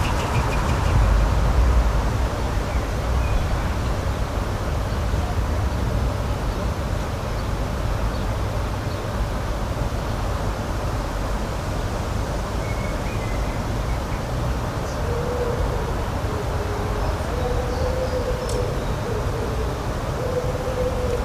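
Outdoor spring nature ambience: a steady rumbling noise bed with a few faint bird chirps. In the second half a distant low two-note call repeats about three times.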